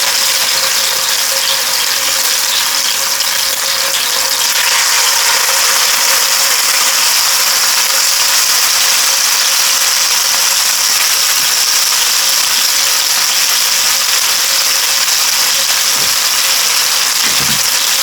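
Jerk chicken pieces sizzling steadily in hot olive oil in a skillet as they sear skin side down. The sizzle grows a little brighter about four or five seconds in, over a faint steady hum.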